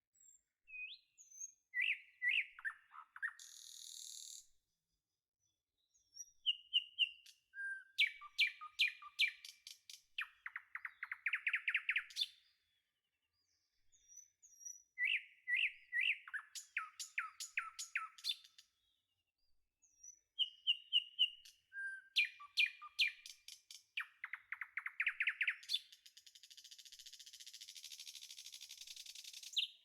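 Recorded songbird song used as a background track: bursts of chirps and rapid trills with dead silence between them, the same phrases coming back several times. A few seconds of hiss come in near the end.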